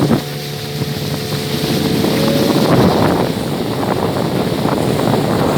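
A motorboat underway on a river: the engine running with a steady hum that fades about halfway through, under a constant rush of wind on the microphone and water.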